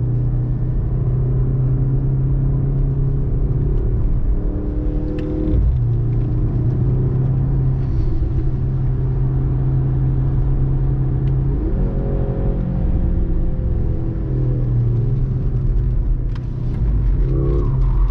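Mercedes-AMG C63 S E Performance's 2.0-litre turbocharged four-cylinder engine running hard, heard from inside the cabin. Its pitch shifts a few times, with a quick rise about twelve seconds in.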